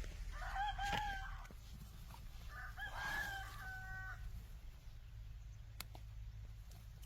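A rooster crowing twice, the second crow starting about two seconds after the first ends, followed by a single sharp click.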